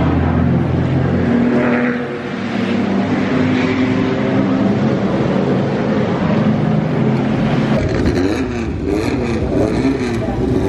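Car engines running and revving, with the pitch swinging up and down several times near the end.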